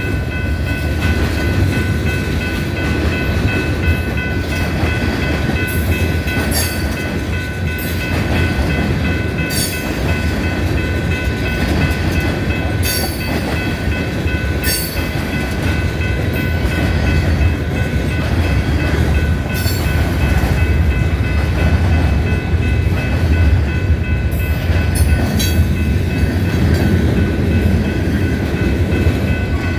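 Freight train rolling past: a steady low rumble of cars on the rails, with a thin, steady high ringing over it and a handful of sharp metallic clicks scattered through.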